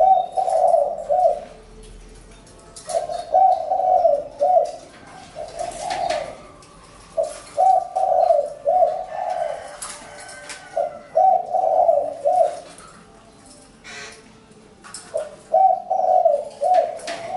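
Spotted dove cooing: a phrase of several low coos, repeated five times about every four seconds.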